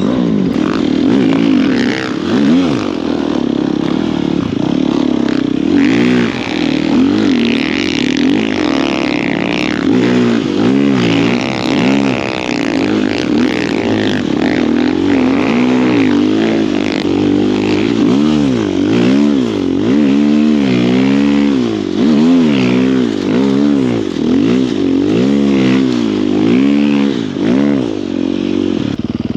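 Snow bike's engine working hard through deep snow, its revs rising and falling over and over as the throttle is worked in quick bursts.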